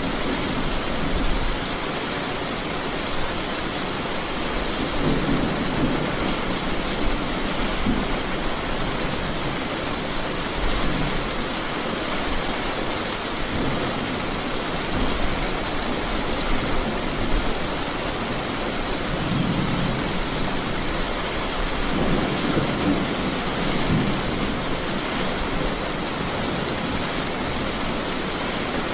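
Steady heavy rain hissing, with rolls of thunder rumbling low several times, about a quarter of the way in and twice in the last third.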